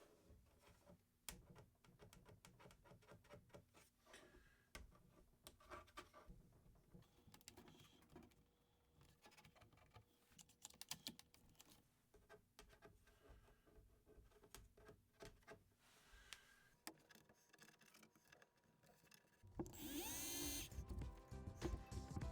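Faint clicks and knocks of tools and parts being handled. Near the end, a power drill-driver spins up and runs for about a second and a half, the loudest sound.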